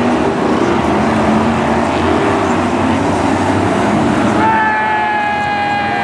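BriscaF1 stock cars' V8 racing engines running on track. About four and a half seconds in, a long steady horn note starts and is held.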